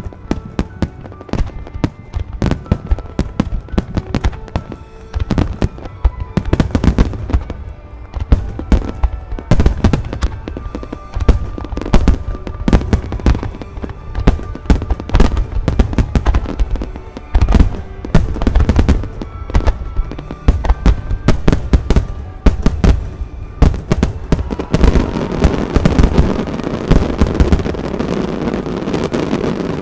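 Aerial firework shells bursting in rapid succession, many sharp booms close together, with music playing underneath. Over the last few seconds the bursts merge into a continuous dense rush of noise.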